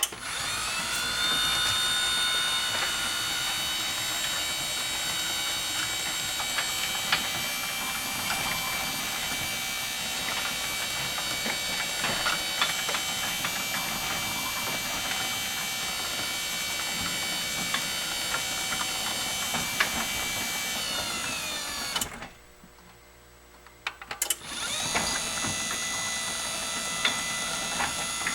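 Genie Silentmax 1000 garage door opener, converted to a side-mount jackshaft drive, running on its slow speed setting. The motor whine rises in pitch as it starts, holds steady with light clicking for about twenty seconds, then glides down and stops. After a pause of about two seconds it starts again.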